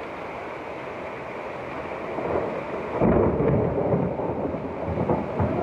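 Steady noise of a heavy rainstorm. About halfway through, a much louder low rumble starts suddenly and carries on in uneven swells.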